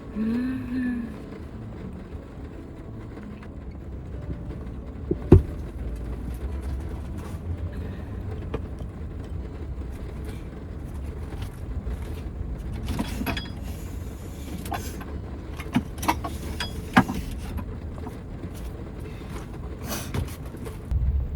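Heavy rain on a Toyota HiAce van, heard inside the van as a steady low rumble, with a few sharp clicks and knocks scattered through it.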